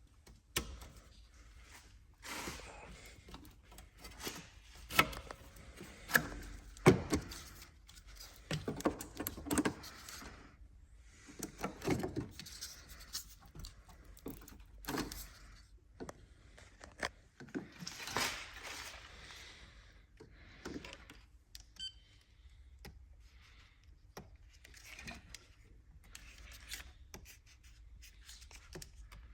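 Irregular clicks, knocks and rustling of hands handling tools and parts, with a few sharper knocks about five to seven seconds in.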